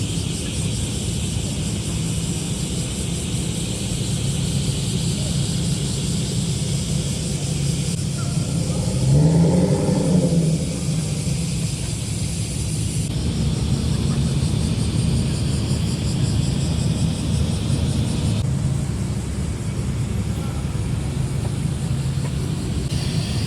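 Car engines and exhausts running at low speed with a steady low rumble, one engine briefly revving about nine seconds in.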